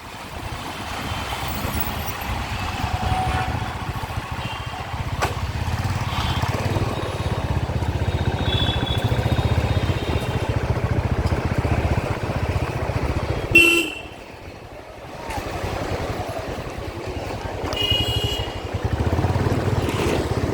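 City traffic heard from a moving bike: a steady low engine and road rumble, with vehicle horns honking, a short loud blast about 13 seconds in and another horn a few seconds later.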